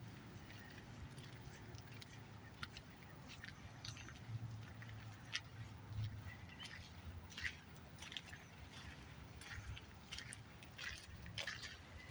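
Quiet shoreline ambience: small water sounds lapping at the shore, with scattered short clicks and ticks over a low steady rumble.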